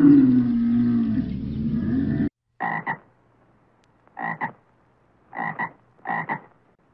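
A dromedary camel's long, low bellow, cut off abruptly about two seconds in. Then a frog gives four short croaks, each a quick double pulse.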